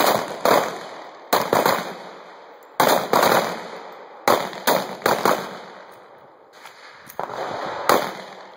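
Handgun shots from several shooters firing at once, about a dozen sharp cracks at uneven intervals, each trailing off in a short echo, with a pause of over a second before the last few.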